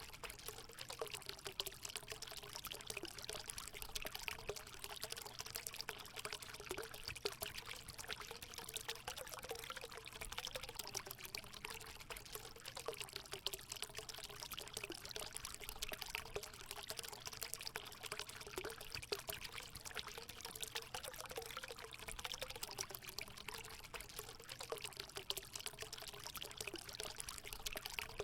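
Hot spring water pouring steadily into a pool, a constant splashing flow with a wavering tone underneath.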